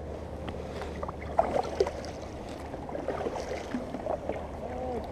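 Paddling a small boat on a river: water sloshing and lapping, with a few sharp knocks about one and a half seconds in, over a steady low rumble.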